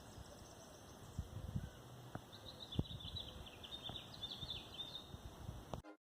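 Faint outdoor ambience with a small bird chirping in quick runs of short high notes, and a few soft low thumps. It cuts off abruptly near the end.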